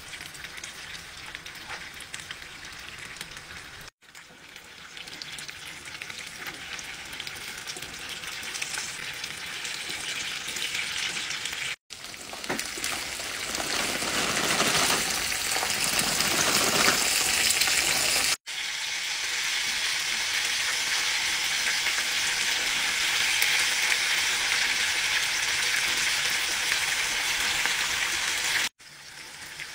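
Toad in the hole and sweetcorn frying in a pan of oil: a steady sizzle that cuts out for a moment four times and is louder in the second half.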